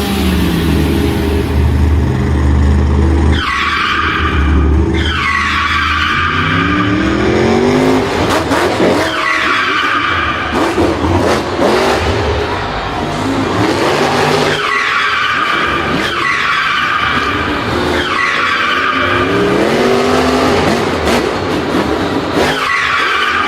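Race car engine revving over and over, its pitch climbing with each rev, with repeated tyre squeals and skids.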